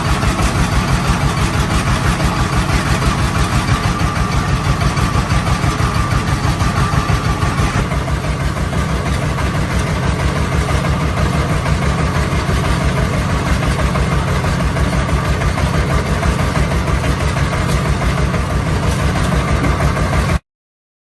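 Rebuilt tractor engine running steadily with a fast, even firing beat. The sound cuts off suddenly near the end.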